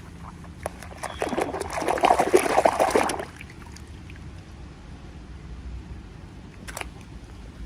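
Dense crackling from a toy package being handled while unboxing, lasting about two seconds and starting about a second in. One sharp click follows near the end.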